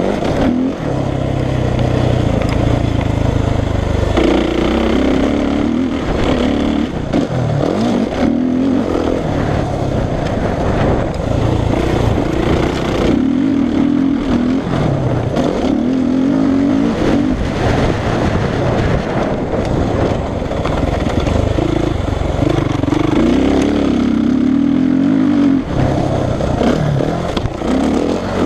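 Suzuki RM-Z450 four-stroke single-cylinder motocross bike ridden hard, its engine revving up and falling back again every few seconds as the throttle is opened and closed.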